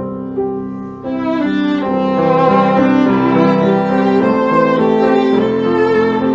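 Instrumental music of bowed strings, violin and cello, playing sustained melodic notes, growing fuller about a second in.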